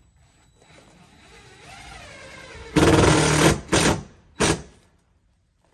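Impact driver driving fasteners to secure a newly set window in its opening. One loud rattling burst of under a second, then two short bursts.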